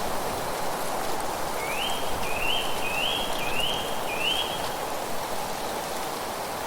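A bird calls five short rising whistled notes in quick succession over a steady rushing of wind through leaves.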